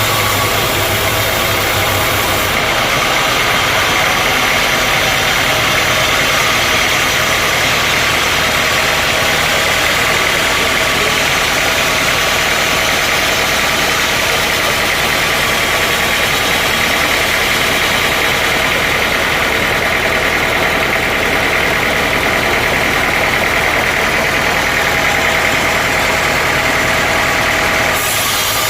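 Sawmill machinery running steadily: a loud, continuous mechanical drone with a hissing high band. It changes abruptly twice, about two seconds in and near the end.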